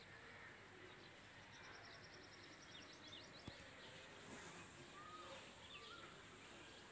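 Faint outdoor ambience with distant birds calling: a quick run of short high notes about a second and a half in, then scattered chirps and a couple of short falling whistles. A single faint click sounds about halfway through.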